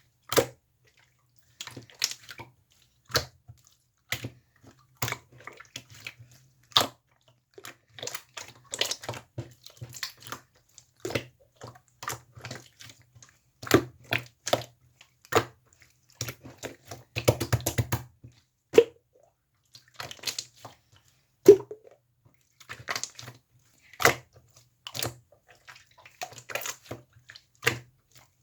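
Slime being squeezed, pressed and stretched by hand, making irregular wet clicks and pops of trapped air, with a quick run of pops about seventeen seconds in.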